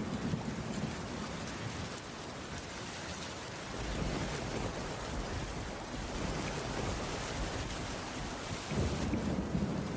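Steady rain falling on a wooden cabin roof, with low rumbles that swell and fade near the start, in the middle and again near the end.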